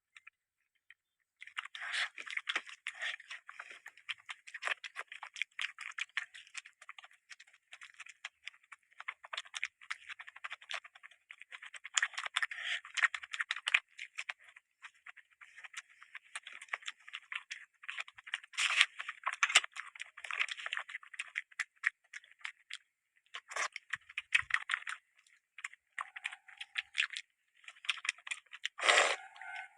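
Close-miked eating sounds: dense, irregular wet clicks and crackles of chewing and mouth smacking, with a few short pauses.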